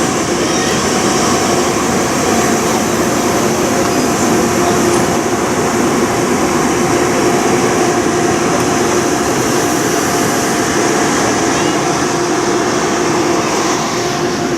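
N700S Shinkansen test train running past at close range: a steady, loud mechanical hum with a few constant tones over rail and equipment noise.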